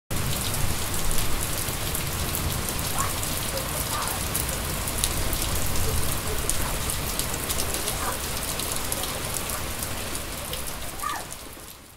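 Steady rain falling, a dense hiss of drops hitting surfaces, fading out near the end.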